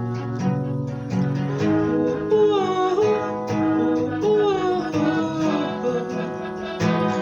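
Acoustic guitar strummed in steady chords, with a wordless voice carrying a gliding melody over it through the middle.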